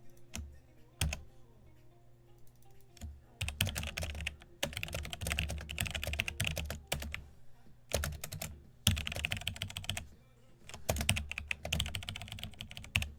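Typing on a computer keyboard: several bursts of rapid keystrokes with short pauses between them, starting a few seconds in.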